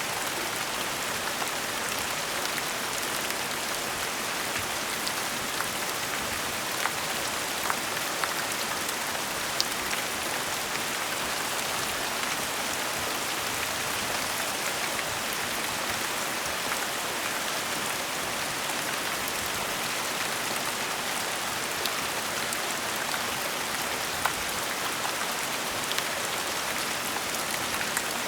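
Gentle steady rain falling, an even hiss with scattered individual drops ticking on a surface.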